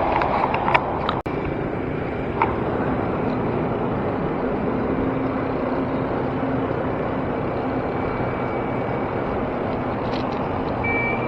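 Steady city traffic and wind rush heard from a moving bicycle, with a few sharp clicks in the first second or so.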